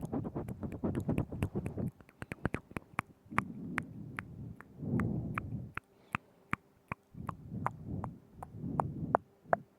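Wet mouth sounds very close to a binaural microphone: quick irregular tongue clicks and lip smacks in clusters, over soft low muffled mouth noise, with a couple of brief lulls.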